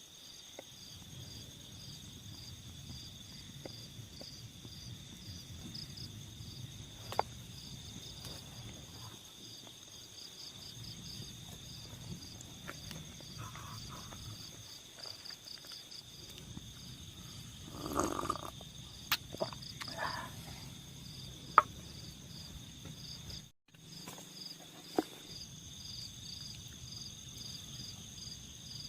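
Night insects, likely crickets, keep up a steady high pulsing trill. Occasional sharp clicks and knocks cut across it, with a louder cluster of knocks a little past the middle.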